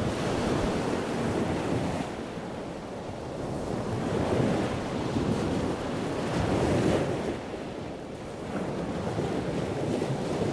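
Rushing water noise, a dense hiss that swells and eases every two to three seconds.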